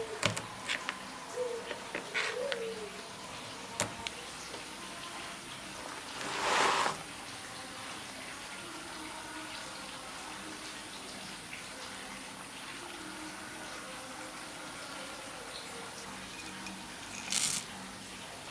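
Quiet kitchen sounds: a few light clicks and knocks, then a rushing hiss lasting about a second, and a shorter, higher hiss near the end.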